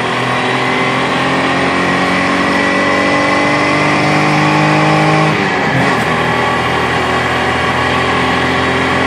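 Nissan 300ZX V6 engine pulling under acceleration, its pitch climbing slowly for about five seconds, then dropping at a gear change and pulling on again.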